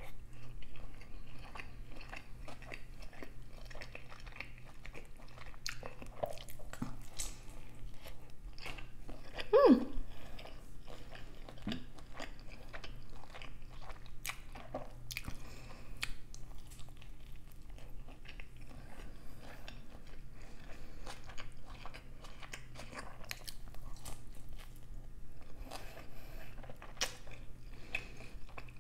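Close-miked chewing and biting of a shrimp and cheese pizza: soft crunches of crust and wet mouth clicks in an irregular patter. About ten seconds in there is a brief, louder sound that falls in pitch.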